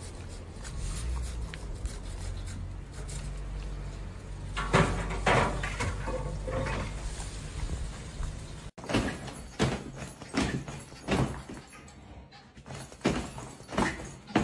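A steady low rumble, then after an abrupt cut a run of sharp knocks about two a second.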